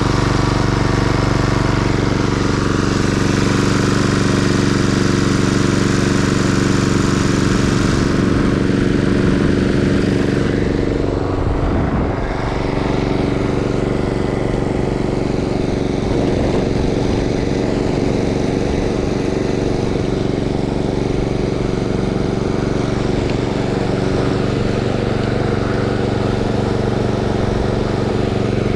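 Stiga Euro 50SH self-propelled lawn mower's engine running steadily under test. About ten seconds in, the higher hissing part of the sound drops away while the engine keeps running.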